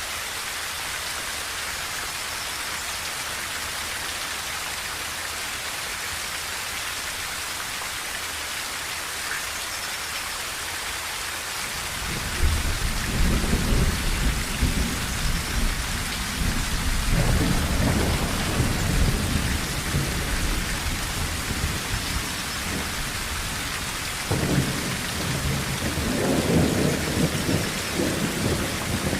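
Rain falling steadily on a tin roof as an even hiss. About twelve seconds in, low thunder starts rumbling and keeps rolling, swelling again twice toward the end.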